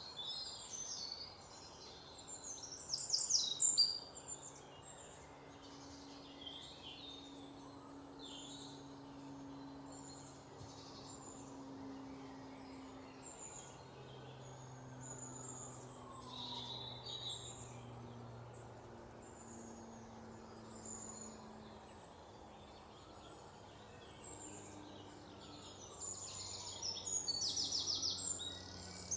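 Several songbirds chirping and singing over a steady background hiss and a faint low hum, with a loud rapid trill about three seconds in and another near the end.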